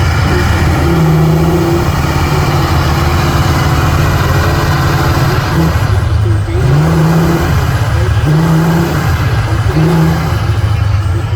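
Heavy off-road trial truck's diesel engine running hard, its pitch rising and falling several times as it is revved.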